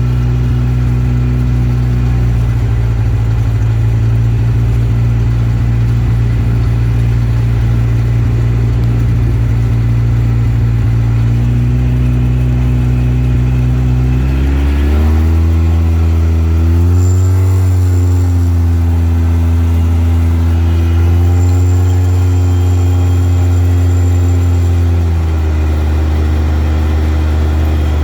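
Off-road vehicle engine running steadily under way. Its pitch rises and falls several times in the second half as the throttle changes.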